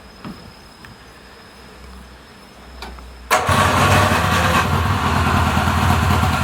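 The 360cc two-stroke engine of a long-laid-up Subaru R-2 is started with the key. It catches abruptly a little over three seconds in and keeps running steadily.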